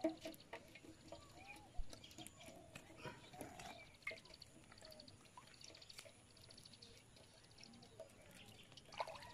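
Faint birds chirping, with short calls and a couple of rapid trills, and a few small clicks.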